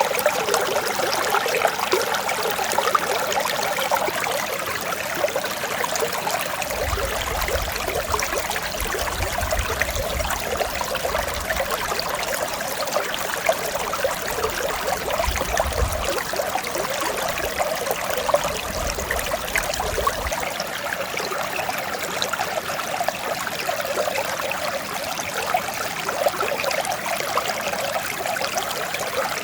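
Mountain stream flowing steadily, an even rush of running water.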